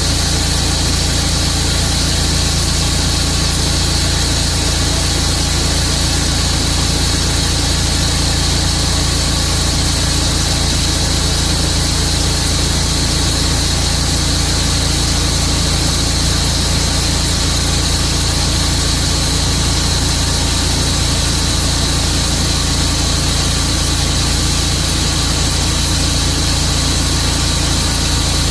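An engine running steadily at an even level, with a constant high whine over its low drone.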